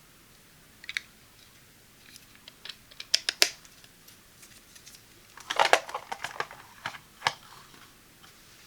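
Scattered sharp clicks and taps of a small plastic device and its packaging being handled: a couple about a second in, a quick run around the middle, a dense cluster a little later and one last click near the end.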